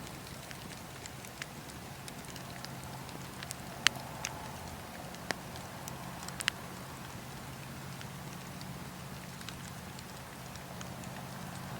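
Wood fire in a fireplace crackling: a steady soft hiss with irregular sharp pops. The loudest pops come about four seconds in and again a little past six seconds.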